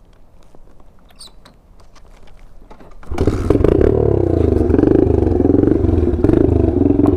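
Small dirt bike's engine starting suddenly about three seconds in and then running steadily, after a few faint clicks and knocks.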